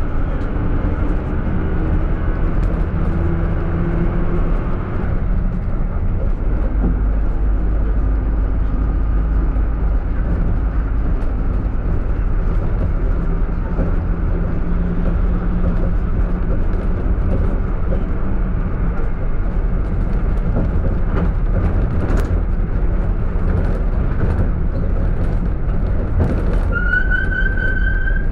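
Minibus driving with its engine and road noise running steadily, the engine pitch rising over the first few seconds. Near the end the brakes begin to whistle with a high, steady squeal from the brake pads as it slows.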